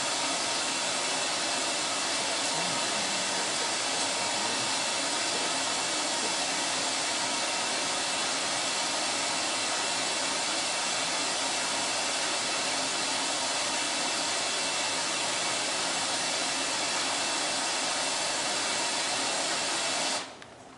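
Steady, even hiss like white noise or static, holding at one level and cutting off abruptly about 20 seconds in.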